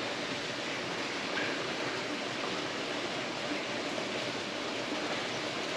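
Steady rain falling, an even hiss with no distinct drops or other events standing out.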